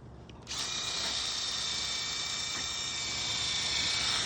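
Power drill running at a steady speed with a high whine for about four seconds, starting about half a second in and stopping near the end.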